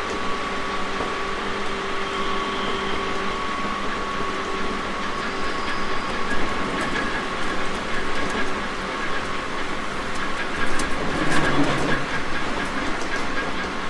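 JR Kyushu 811 series electric train heard from inside the car while running, a steady noise with whining tones through it. Wheels click over rail joints, louder for a moment about eleven seconds in.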